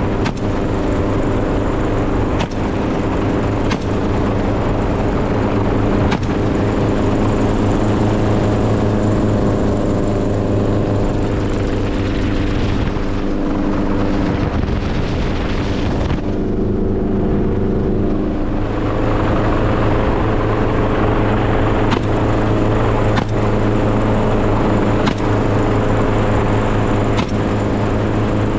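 An engine running steadily at an even speed, its sound going duller for a couple of seconds a little past the middle.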